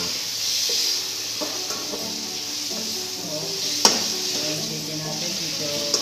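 Chicken wings sizzling in hot oil in a wok while a spatula stirs and scrapes them around, with one sharp clack of the spatula against the wok about four seconds in and a lighter one near the end.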